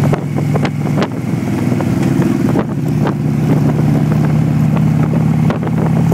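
Motorcycle engine running steadily at cruising speed, with a slight change in pitch about a second in.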